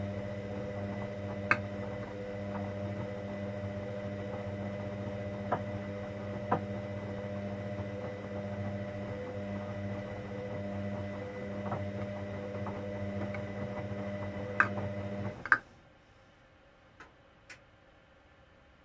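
Hoover Dynamic Next washing machine humming steadily with a few light clicks. About fifteen seconds in there are two sharp clicks and the hum cuts off suddenly, leaving a few faint ticks.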